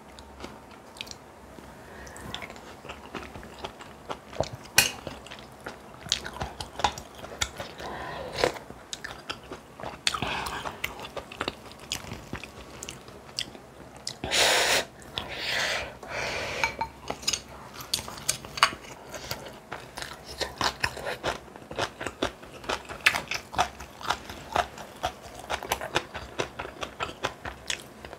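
A person eating: chewing and biting food with many short crunchy clicks. A few louder, longer noisy sounds come about halfway through.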